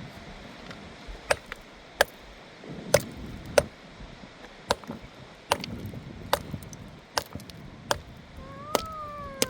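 Repeated sharp chopping strikes, a little more than one a second. Near the end a cat meows once, its pitch rising and then falling.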